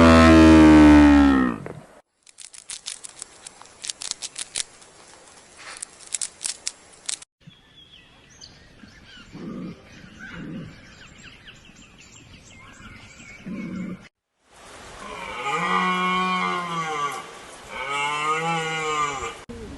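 Several short animal-call recordings cut one after another: a loud call that falls in pitch at the start, then a run of rapid sharp clicks, then faint chirping with a few low thumps, and near the end two long calls that rise and fall in pitch.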